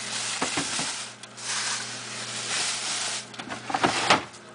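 Rustling and handling of food packages in a fridge, with a few knocks and clatters about three and a half to four seconds in.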